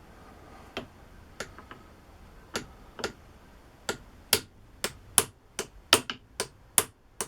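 A homemade punch, an old tap ground to a point, being tapped with a hammer to put a punch mark on a steel part. About a dozen sharp taps, light and spaced at first, then louder and quicker from about four seconds in.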